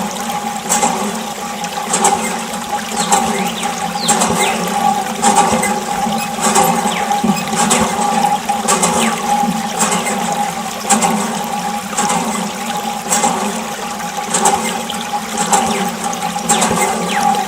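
Small electric water pump running with a steady hum as water gushes and splashes, with regular clicks a little over once a second.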